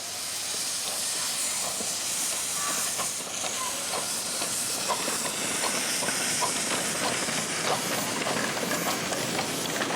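Miniature steam locomotive letting off steam: a steady, loud hiss with light irregular clicks and clanks.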